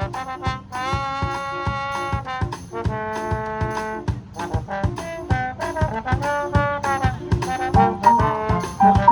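Wind band playing, with brass holding long chords over a steady drum beat.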